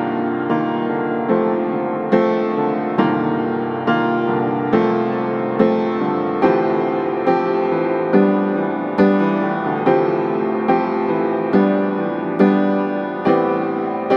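Slow piano music: soft chords struck at a steady pace of a little more than one a second, each left to ring.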